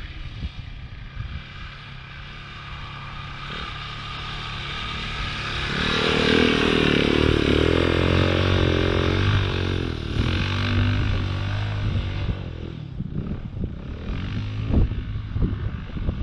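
Motorcycle engine running under throttle, rising to its loudest about six seconds in, its pitch climbing and wavering as it revs, then easing off after about twelve seconds. Wind buffets the microphone near the end.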